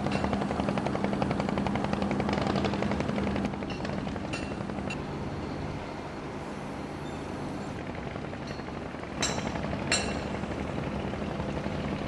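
An engine running steadily with a fine even pulse, easing a little about a third of the way in, with two sharp knocks or clicks about a second apart near the end.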